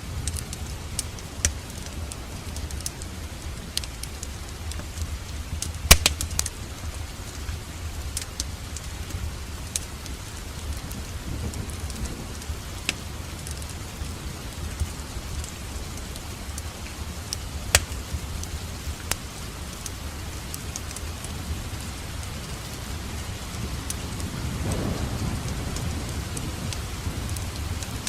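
Wood fire in a fireplace crackling: scattered sharp pops and snaps over a steady low rumble. The loudest pop comes about six seconds in, another sharp one near eighteen seconds. The rumble swells briefly a few seconds before the end.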